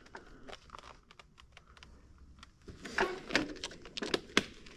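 Light, irregular clicking and rustling from a stopped rider handling gear and clothing, growing louder from about three seconds in.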